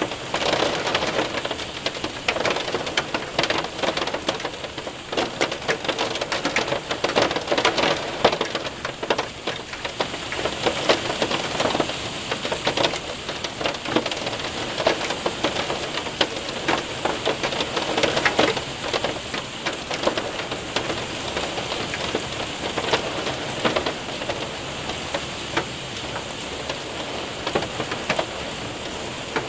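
Hail and rain striking a window and roof: a steady rush of rain dotted with many sharp ticks of hailstones, the ticks thinning out over the last few seconds.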